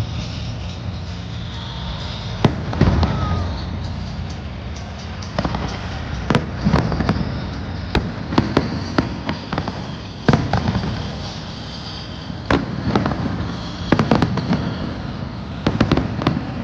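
Aerial fireworks going off: repeated sharp bangs and crackles at irregular intervals, often several in quick succession, over a steady low rumble of crowd noise.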